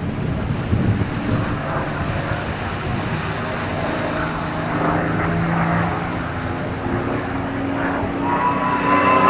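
Aircraft engine noise from a display flight, a steady rush with wind buffeting the microphone; a whining tone grows in about a second before the end.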